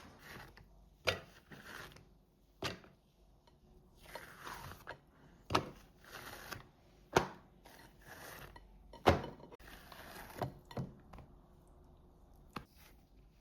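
A series of about eight sharp knocks and clicks, irregularly spaced, with soft rustling and handling noise between them.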